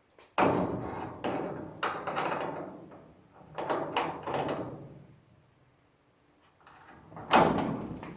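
Clanks and knocks of a sectional garage door and its opener arm being handled while the arm is re-hooked to the door: a sharp loud clank about half a second in that rings on, more knocks in the next few seconds, a pause, then another loud clank near the end.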